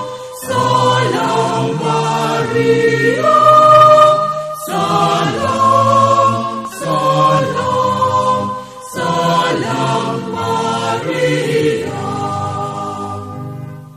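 Choir singing a sacred hymn in phrases of a few seconds, with brief breaks between phrases.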